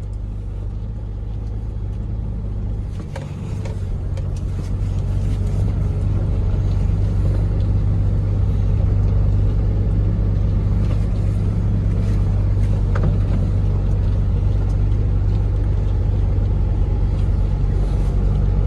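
Loaded dump truck's diesel engine running steadily, getting louder a few seconds in and then holding at a heavier, steady drone.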